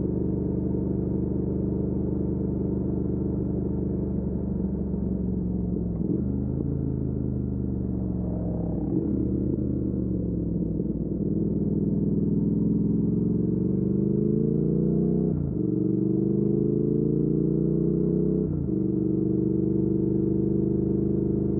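2019 Triumph Speed Twin's 1200 cc parallel-twin engine through a Weslake Shorty Pro exhaust, heard from the bike while riding. It cruises steadily, the revs fall away for several seconds, then climb again through two upshifts about three seconds apart in the second half, and it settles back into a steady cruise.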